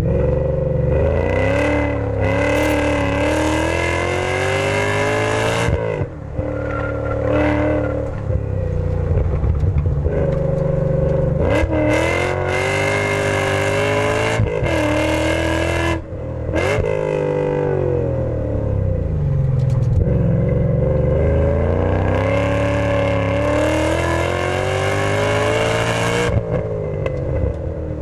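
BMW E39 M5's 4.9-litre S62 V8, fitted with Supersprint headers, X-pipe, high-flow race cats and Dinan mufflers, pulling hard with the pitch climbing, then dropping off sharply, several times over, with one long pull in the second half. It is heard from a microphone in the trunk, so the exhaust dominates.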